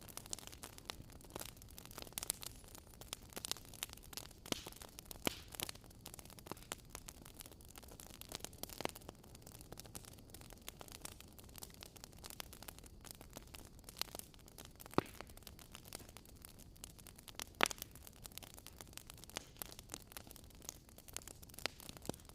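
Wood fire crackling: frequent small irregular pops and snaps over a soft hiss, with two louder pops in the second half.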